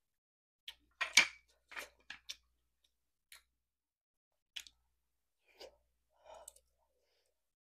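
Eating sounds close to the microphone: a scattering of short wet mouth clicks and smacks while chewing soft braised food, the loudest about a second in, with quiet gaps between.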